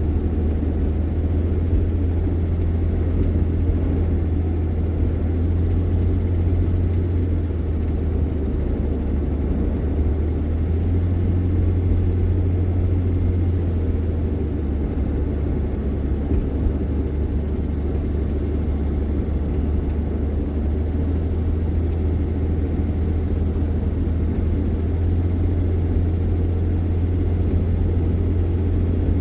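Steady low engine and road drone heard from inside a moving vehicle's cab, with no changes or sudden noises.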